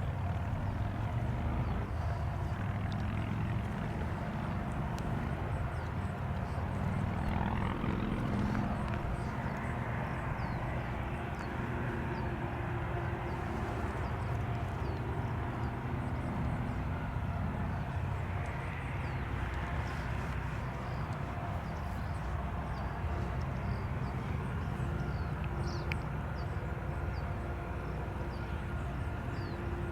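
Freight train rumbling past: a steady low drone of diesel locomotives and rolling cars, with faint steady tones coming in partway through.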